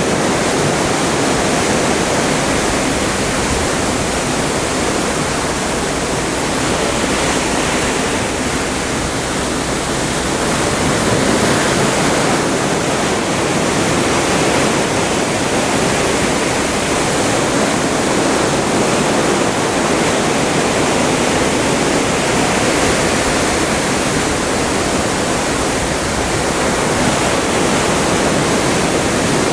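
Atlantic sea water rushing past the hull of a moving cruise ship: a steady, loud wash with slight rises and falls.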